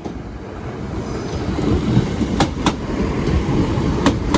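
A train running over a level crossing, its rumble growing louder as it comes close. Its wheels clack over the rail joints in quick pairs, twice.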